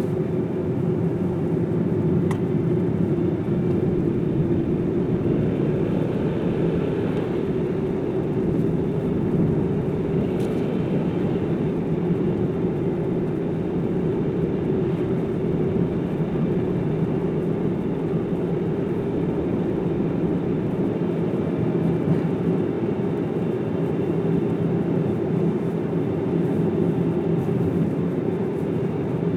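Car driving along a road: steady tyre and engine noise with a low rumble.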